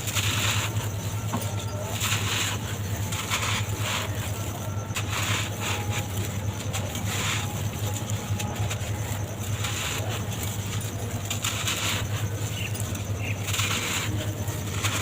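Dry, dusty material being crumbled by hand: irregular crackles and crunches with short rustling surges, over a steady low hum.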